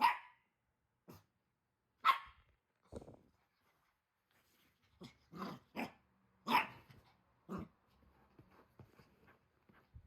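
Small Pomeranian-Chihuahua mix puppy barking: about half a dozen short, sharp barks, irregularly spaced, with a few soft knocks between them.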